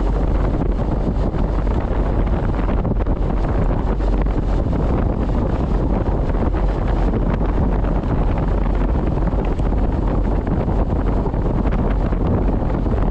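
Steady wind noise buffeting a helmet-mounted camera microphone while riding a Honda CB500X motorcycle, drowning out most of the engine.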